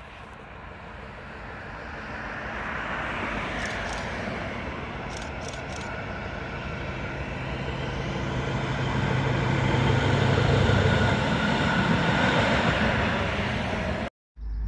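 Freight train approaching and passing, the locomotive's low hum and the rumble of the train growing louder to a peak about ten seconds in. The sound cuts off suddenly near the end.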